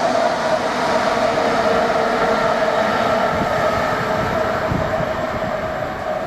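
Diesel-hauled freight train passing close by, led by Class 66 and Class 70 locomotives: a continuous loud rumble with a steady mid-pitched tone running through it, easing slightly near the end.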